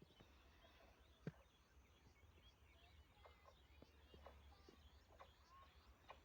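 Near silence: faint outdoor ambience with a steady low hum and scattered faint bird chirps, and one faint click about a second in.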